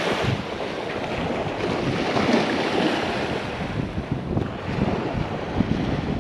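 Ocean surf washing on a beach under a strong northeast wind, with gusts buffeting the microphone in an uneven low rumble.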